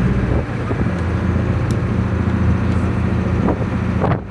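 Tour boat's engine running steadily with a low hum, under a constant rush of wind and water.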